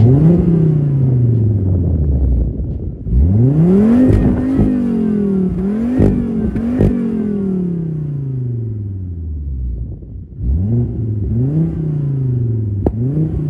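Volvo V70R turbocharged five-cylinder engine, through a freshly fitted IPD cat-back exhaust, catching at the start with a rev flare that slowly settles, then blipped several times in two groups, each rev falling slowly back to idle. One sharp click sounds near the end.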